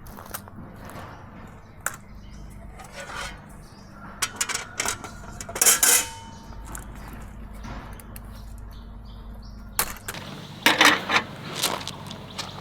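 Camping gear being handled while a small tent is pitched: scattered clicks, knocks and short scrapes, with the loudest clatters about halfway through and again near the end.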